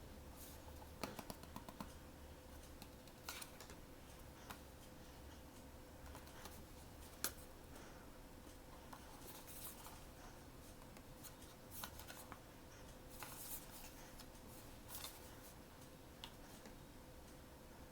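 Faint handling of blind-box packaging: scattered soft clicks, taps and rustles, with one sharper click about seven seconds in, over a faint steady hum.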